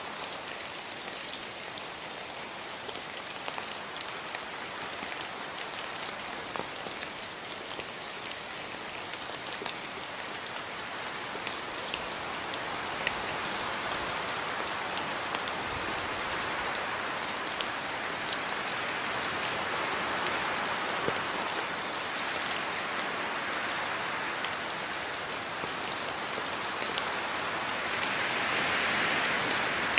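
Steady rain falling on a house yard, a dense even patter with many individual drops ticking, growing a little heavier in the second half and again near the end.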